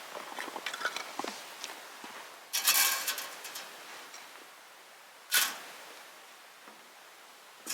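Handling and working noises: light clicks and rustles, then a longer bright scrape about two and a half seconds in and a short sharp scrape about five seconds in.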